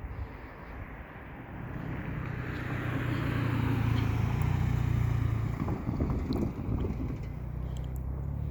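Diesel locomotives of a CSX intermodal train approaching and going by: a low, steady engine drone that grows louder over the first few seconds and eases off slightly after the middle.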